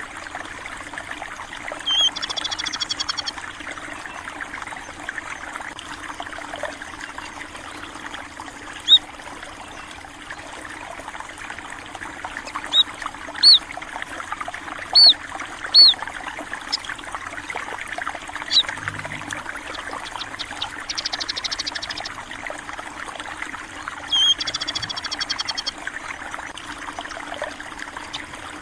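Stream water flowing and trickling steadily, with small birds calling over it: short high chirps every second or two through the middle, and quick high trills about two seconds in and twice near the end.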